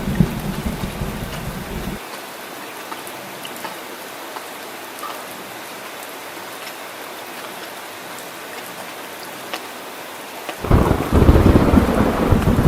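Steady rain falling, with scattered individual drops ticking. A low rumble of thunder dies away about two seconds in, and a loud roll of thunder breaks in suddenly near the end.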